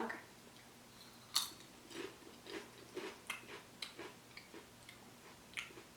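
A sharp crunch of biting into a hot chili potato chip about a second and a half in, then crunchy chewing: soft crunches about two a second.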